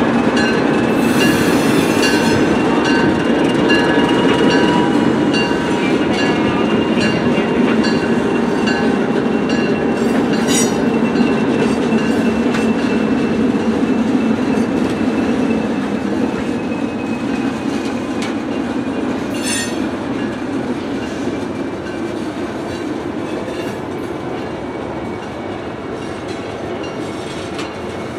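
A train rolling past on the rails, wheels rattling over the track with a thin high wheel squeal held through much of it. Loud at first, it fades gradually over the second half as the train moves away.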